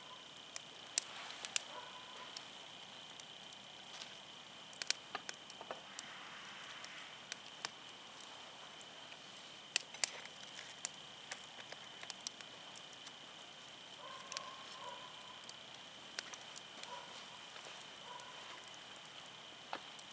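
Firewood burning in an open campfire, crackling with irregular sharp pops and snaps over a faint steady hiss.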